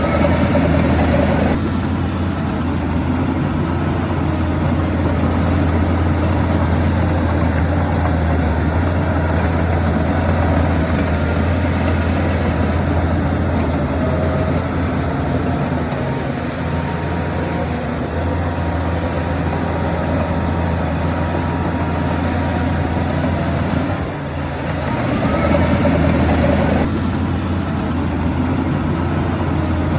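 Heavy diesel engine of earthmoving machinery running steadily with a deep low hum. It gets louder twice, near the start and again about 25 seconds in, with a rising pitch each time before dropping back.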